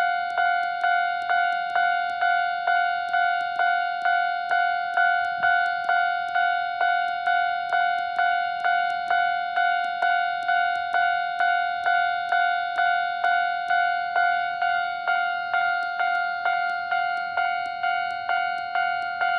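Electronic warning bell of a Japanese railway level crossing ringing steadily, about two strikes a second on the same two-tone ding, signalling that a train is approaching and the crossing is closed.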